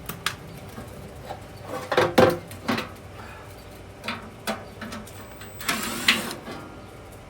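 Scattered clicks and metal knocks of a screwdriver and screws being worked loose from a furnace blower assembly, loudest about two seconds in, with a short scraping rush about six seconds in.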